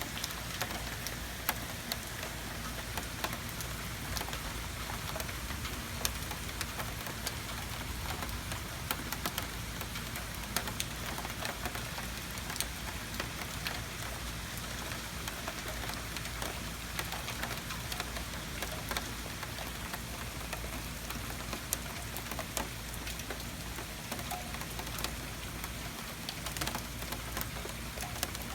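Heavy rain pouring down steadily, a constant hiss with many sharp ticks of drops hitting hard surfaces.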